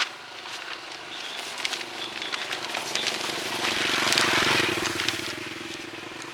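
A motor vehicle passing by: its engine noise grows louder to a peak about four seconds in, then fades.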